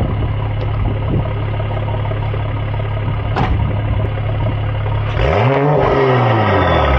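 Mercedes-AMG E53's 3.0-litre turbocharged inline-six idling through catless downpipes and an aftermarket exhaust with the valves open, then a single throttle blip about five seconds in, the pitch climbing and falling back toward idle.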